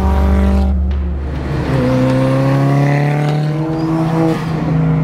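A car engine accelerating hard, its pitch climbing steadily, with a brief drop about four seconds in at a gear change.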